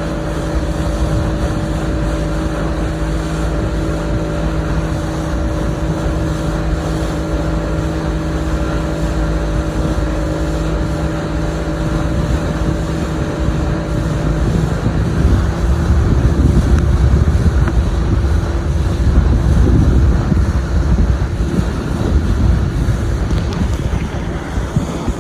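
Motorboat engine running steadily under way, with wind buffeting the microphone and water rushing past the hull. About halfway through, the engine note shifts slightly higher and the wind and water noise grows louder.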